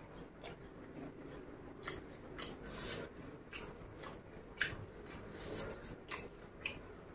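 Close-up chewing of food: irregular wet mouth clicks and crisp crunches, the loudest a little past halfway through.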